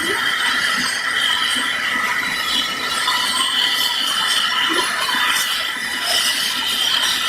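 Sikorsky S-70A Black Hawk helicopter's twin turbine engines running with a steady high-pitched whine, several steady tones over a rushing hiss.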